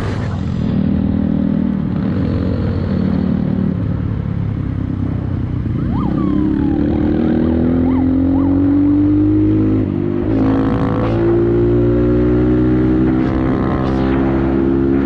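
Motorcycle engine accelerating hard, its pitch climbing. It shifts up about ten seconds in and keeps pulling.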